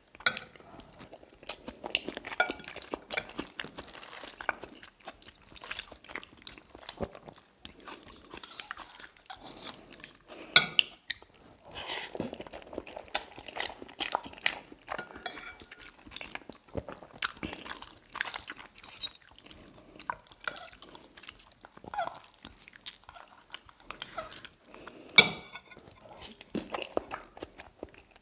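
Close-up eating of tagliatelle in salmon cream sauce: chewing and wet mouth sounds with frequent light scrapes and clinks of cutlery on a plate. Two sharper ringing clinks, about ten seconds in and near the end, are the loudest sounds.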